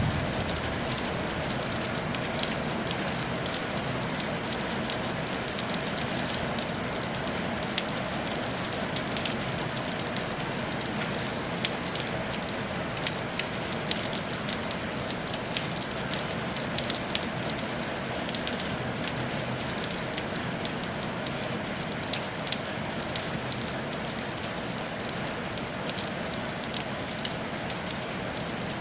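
Steady rain falling on a tile roof: an even hiss dotted with many small, sharp ticks of individual drops striking.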